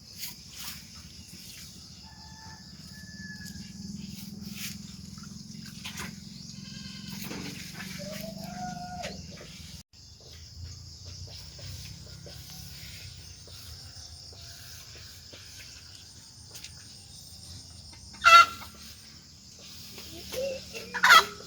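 Chickens calling and clucking, with two loud, short calls near the end, over a steady high insect drone.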